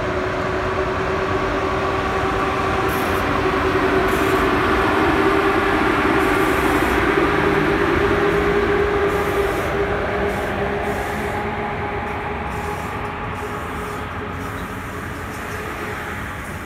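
PKP Intercity electric locomotive pulling a passenger train out of a station, passing close by: a steady humming tone from the locomotive over the rumble of the moving train. The sound is loudest about halfway through and fades as the locomotive draws away and the coaches roll past.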